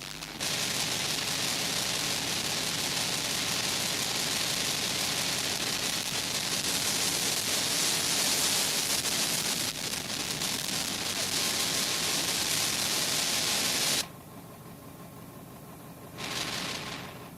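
Steady loud hiss of noise with no clear pitch. It drops off suddenly about fourteen seconds in and swells back near the end.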